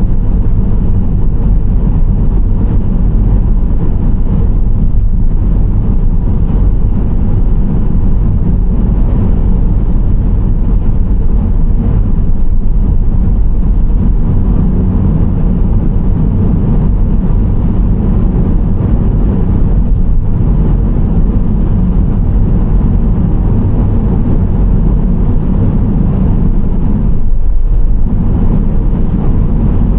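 Steady low rumble of a Nissan Serena C25 minivan on the move: tyre and road noise with engine drone, holding an even level throughout.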